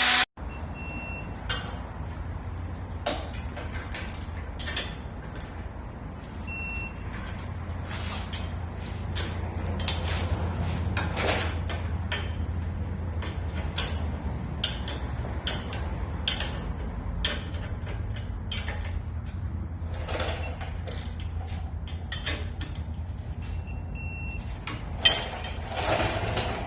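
Auto repair shop work sounds: a steady low hum under scattered clicks, clanks and knocks, with three short electronic beeps, one about half a second in, one near seven seconds and one near the end, and a sharp knock shortly before the end.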